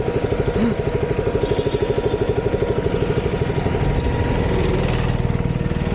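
Motorcycle engine running steadily while riding, with a fast, even pulsing beat.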